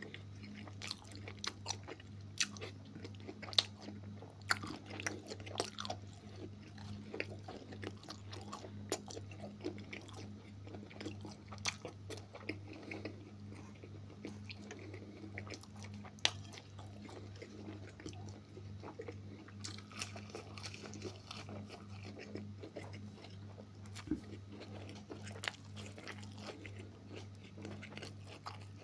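Close-up eating sounds of a person chewing and biting mouthfuls of beef offal with potato pancakes: many small, irregular wet clicks and crunches. A steady low hum runs underneath.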